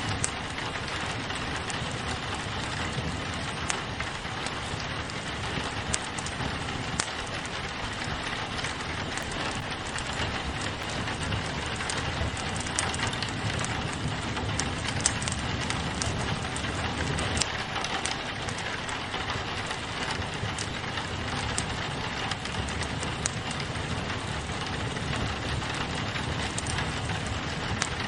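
Steady rain on a window mixed with a crackling wood fire, with sharp pops scattered throughout.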